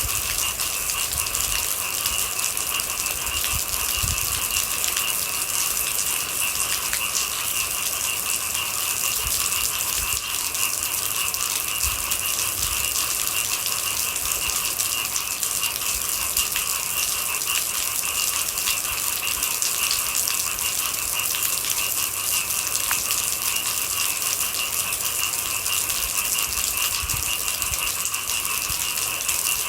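Steady rain falling with a dense patter, over a constant high-pitched chorus of night animals.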